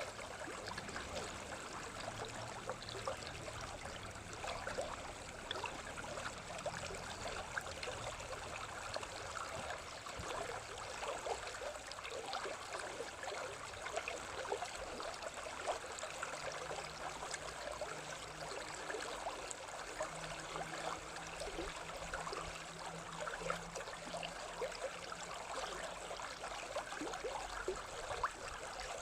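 Steady running water, as of a small stream, with a dense patter of small splashes throughout.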